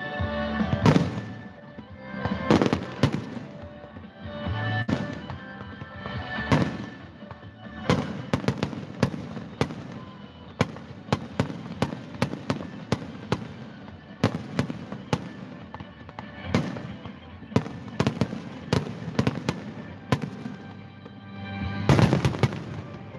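Fireworks going off: repeated booming shell bursts, with a fast run of sharp cracks in the middle and another loud burst near the end, over music.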